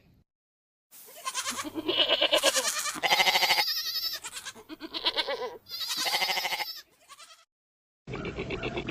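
Goats bleating: a run of four or five quavering bleats, then after a short pause another, duller-sounding bleat that runs on past the end.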